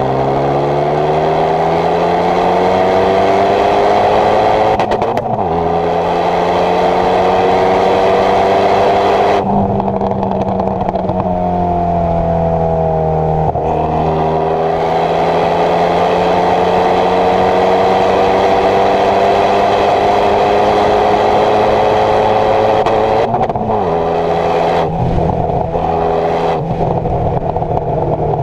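Renault Mégane 225's decatted, remapped turbocharged 2.0-litre four-cylinder accelerating in long pulls, the engine pitch climbing slowly and dropping at gear changes or lift-offs about 5, 13 and 23 seconds in. After the last lift-off, a few seconds from the end, the exhaust gives a run of sharp pops and crackles on the overrun.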